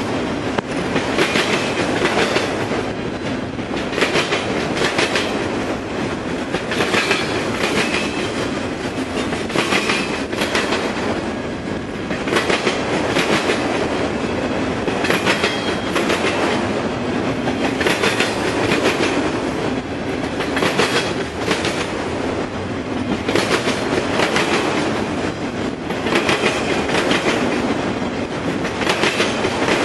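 Train cars rolling steadily past, their wheels clicking over the rail joints.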